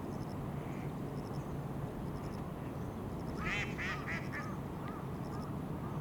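A bird calling: a run of four quick calls a third of a second apart, growing fainter, then a few softer single calls.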